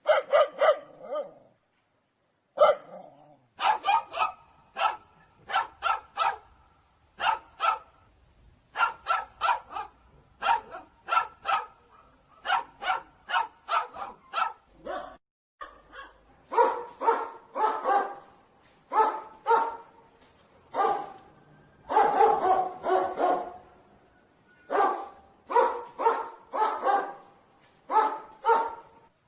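Dog barking repeatedly in quick runs of several sharp barks with short pauses between them; about halfway through the barks turn deeper and fuller.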